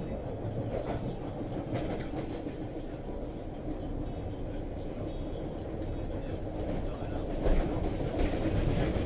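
Subway train running, steady rumble of wheels on the rails with scattered clicks and clatter, heard from inside the car. It grows louder about seven and a half seconds in, with a few knocks.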